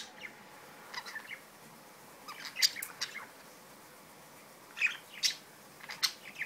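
Pet budgerigars chirping in short, scattered bursts: a few chirps about a second in, a busier cluster around two and a half seconds, and a couple more near the end, with quiet gaps between.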